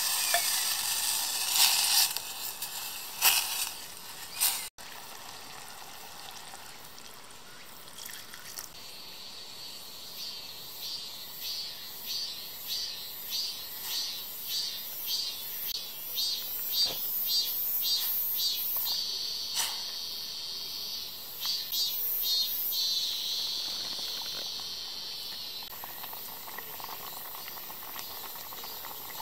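Chicken sizzling and hissing in a stainless steel pot on a camp stove, loud at first and ending abruptly a few seconds in. Then, over a quieter low simmer, an insect calls in regular high pulses, a little under two a second, breaking into steady buzzes near the end.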